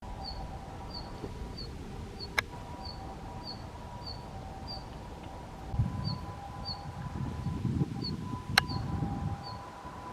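A small bird's short high call note repeated about twice a second, over a faint steady hum and low rumbling handling noise, with two sharp clicks, one about two seconds in and one near the end.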